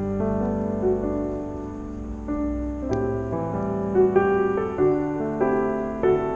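Slow, gentle piano music, new chords following one another about every half second.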